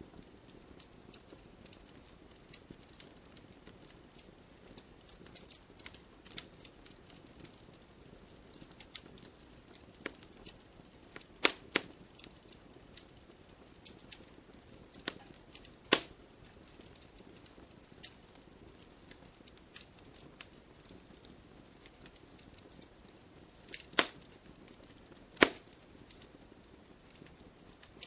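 Campfire crackling: burning wood giving sharp, irregular pops, a few loud ones among many faint ticks, over a low hiss.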